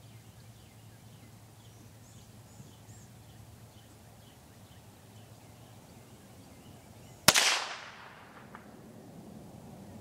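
A single shot from a Savage Mark II .22 rifle about seven seconds in, a sharp crack with a short echo. Birds chirp faintly throughout.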